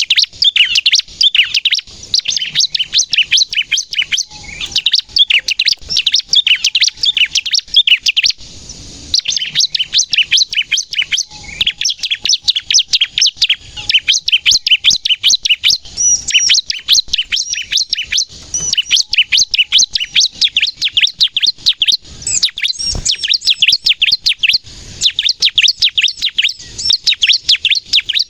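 Bar-winged prinia (ciblek) in full song: fast, loud strings of sharp, high chirps, many notes a second, with a short break about eight seconds in.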